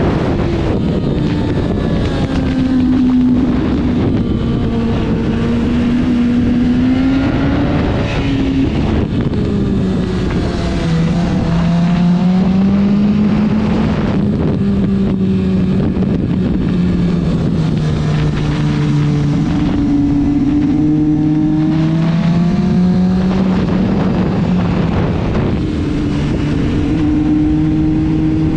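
Motorcycle engine running hard at speed, its note rising and falling again and again as the revs change, under heavy wind rush on the microphone.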